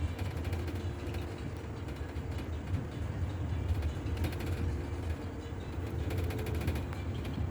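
Double-decker bus heard from inside the cabin while moving: a steady low engine and road rumble, with short spells of light rattling and clicking from the bodywork.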